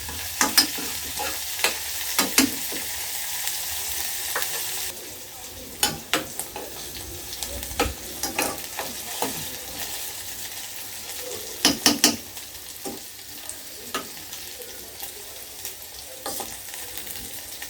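Onions and green onions stir-frying in hot oil: a steady sizzle, with sharp taps and scrapes of the stirring utensil against the pan every few seconds. The sizzle drops a little about five seconds in.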